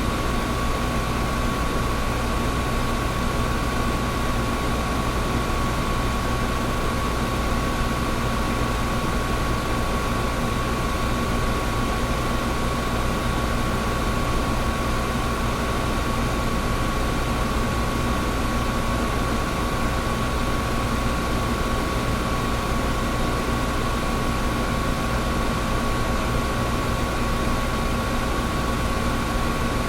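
Air conditioner running steadily: an even rush of air with a constant hum and a thin steady tone above it.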